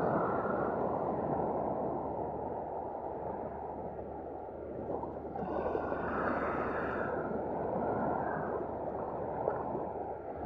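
Steady rushing of sea surf and wind on the shore, swelling a few times, about six seconds in and near the end, with a brighter hiss at each swell.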